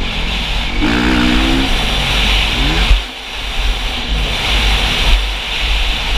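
Motocross dirt bike engine being ridden, rising in pitch about a second in and again near three seconds, then dropping off sharply.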